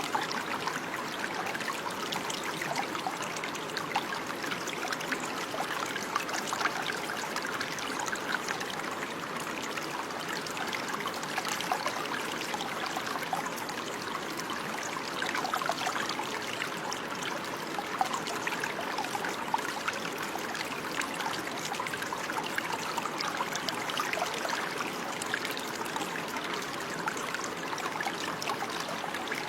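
Running water trickling and splashing steadily, like a small stream flowing over stones.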